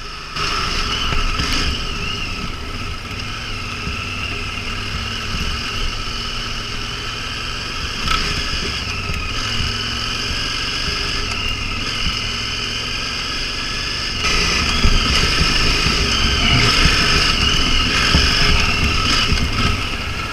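Motorcycle engine running steadily while riding, heard from on the bike, a little louder from about two-thirds of the way through.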